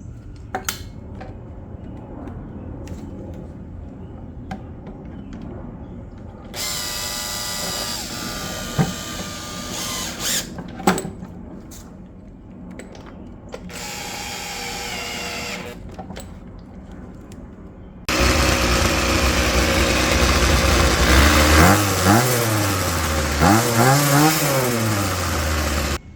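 A power driver runs screws back in with two short spells of motor whine over light clicking. About two-thirds of the way through a much louder motor sound starts abruptly and runs to the end, its pitch revving up and down several times near the end.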